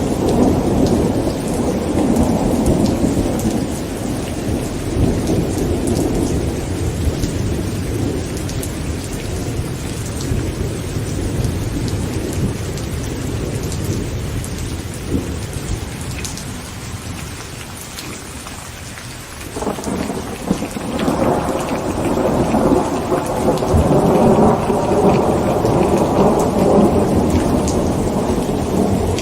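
Heavy rain pattering on a tent, with rolling thunder. One long roll of thunder dies away about two-thirds through, then a new roll breaks in fairly suddenly and keeps rumbling.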